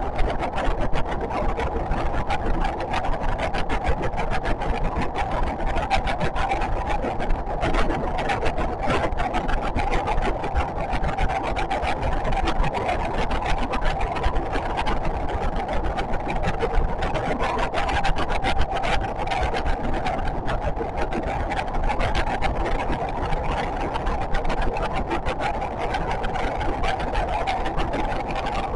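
JR West 521 series electric train running along the line, heard from inside the car: a steady running noise of wheels and motors, with a dense fine rattle throughout.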